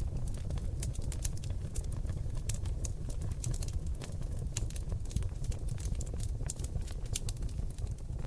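Seasoned oak logs burning in a fireplace, crackling with frequent irregular small pops and snaps over a steady low rumble of flame.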